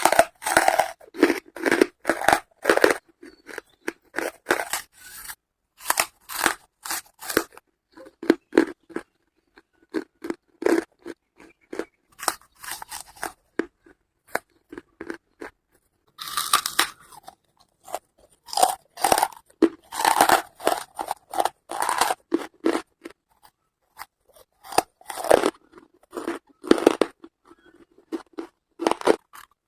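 Charcoal being bitten and chewed close up: bursts of dry, sharp crunches in quick runs, with short pauses between mouthfuls.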